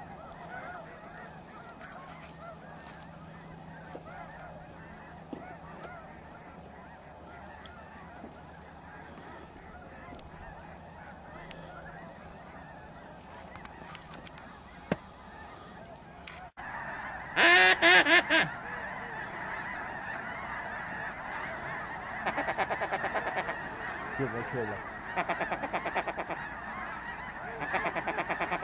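A large flock of snow geese calling, a dense steady chorus of honks. About halfway through the sound breaks off abruptly, and after it the calls come louder.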